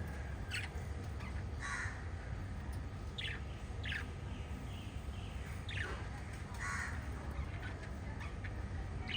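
Lovebirds giving short, harsh chirping calls every second or so, over a steady low hum.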